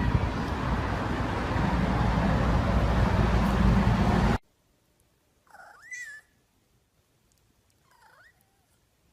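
A loud, dense noise that cuts off suddenly about four seconds in, then a cat meows twice, the second meow short and fainter.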